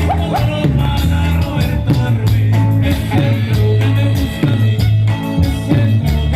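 Live norteño band playing a cumbia: a steady, bouncing bass line under a melody, with regular percussion ticks keeping the beat.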